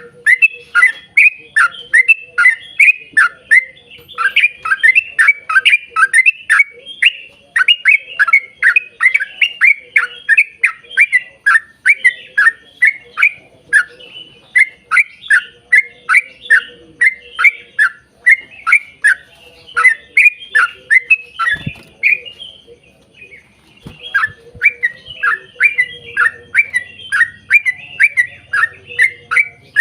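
Yellow-vented bulbul (trucukan) singing a long, rapid run of short downward-sliding notes, about three a second, with one brief pause about two-thirds of the way through.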